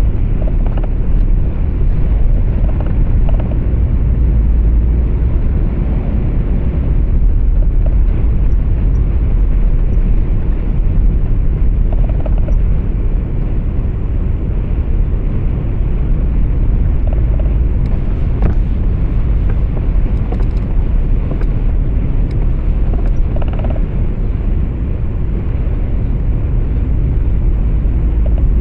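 Steady low rumble of a moving truck's engine and tyres heard from inside the cab, with a few faint clicks or rattles about two-thirds of the way through.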